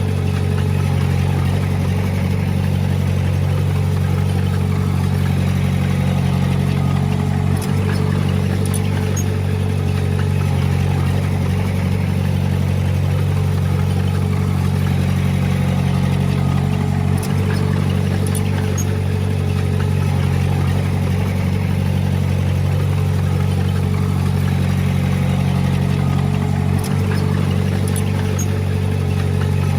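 Diesel engine of heavy earthmoving equipment running steadily at constant speed, with three brief dips about nine seconds apart.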